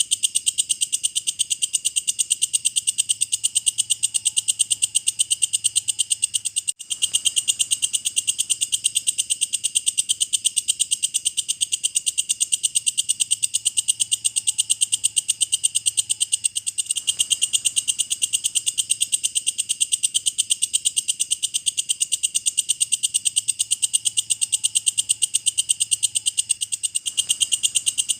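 Walang kecek (an Indonesian katydid) stridulating: a continuous, fast, even, high-pitched ticking trill, with a brief break about seven seconds in.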